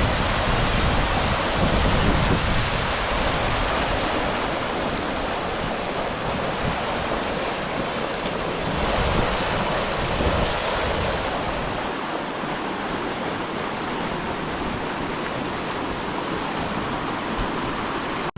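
River Dove water rushing steadily over and around the stepping stones, with wind buffeting the microphone, heaviest in the first two-thirds and easing off later.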